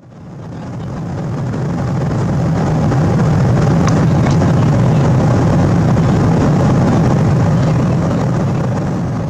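Cabin noise aboard a Boeing 777-200 airliner: a steady low drone of jet engines and rushing air that fades in over the first two seconds. A couple of faint clicks come about four seconds in.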